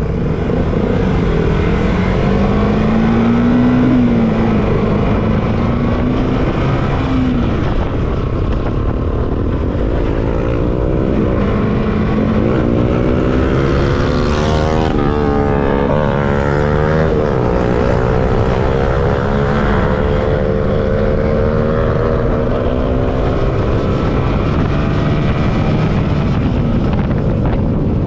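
Motorcycle engines running on the road, with wind rushing on the microphone. The engine pitch rises and falls with speed, and around halfway through several engine tones cross as bikes ride alongside or pass.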